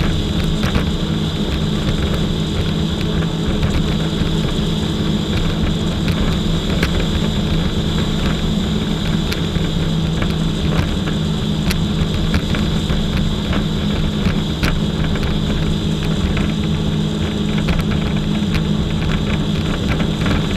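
Jet ski engine running at a steady speed, a constant drone with scattered small clicks.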